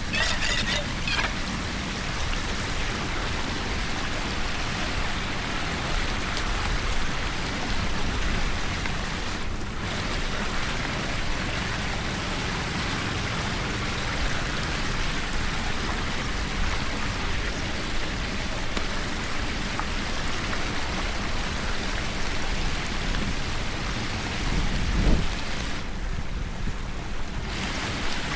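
Steady rush and splash of running water, with a single low thump near the end.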